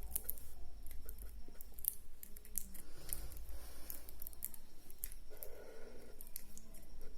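Marker tip scratching across paper in short, irregular strokes while drawing, over a steady low hum.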